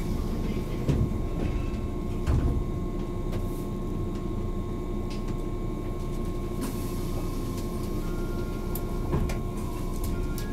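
Steady hum of a standing JR 185 series electric train's equipment, heard from inside the car, with a few dull thuds about one and two seconds in and again near the end.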